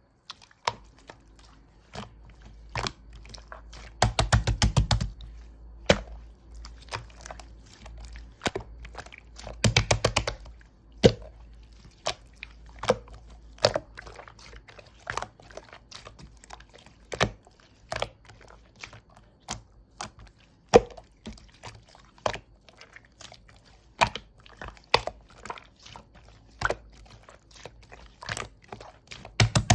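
Slime being squished and poked by hand, making sharp sticky clicks and pops, with quick runs of rapid clicking about four seconds in, around ten seconds, and near the end.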